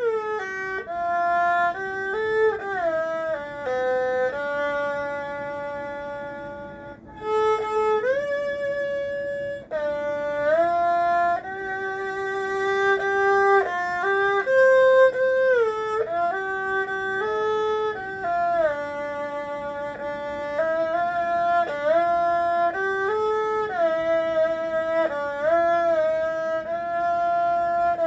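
Erhu playing a slow, lyrical melody with frequent pitch slides between notes, over a lower sustained accompaniment line, with a short breath-like pause about seven seconds in.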